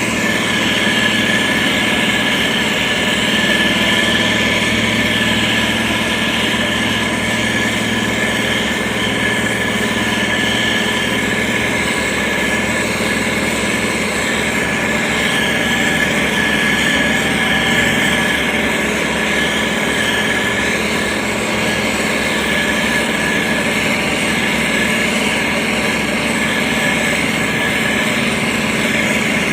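Diesel engine of heavy road-construction machinery running steadily, with a constant hum and no change in pace.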